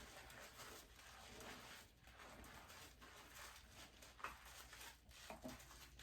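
Faint soft rubbing and squishing of hands working shampoo lather through wet hair, coming and going in short strokes, with a couple of small clicks in the second half.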